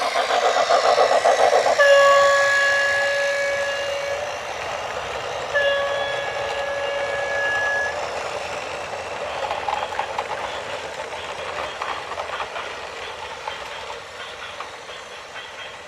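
A horn sounds two long, steady blasts, each about two and a half seconds, over a running vehicle's rumble. A fast rhythmic clatter leads in before the first blast, and a fainter clatter runs on after the second.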